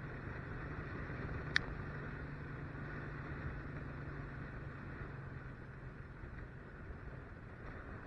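Motorcycle engine running steadily and faintly while riding, a constant low hum, with a single sharp click about a second and a half in.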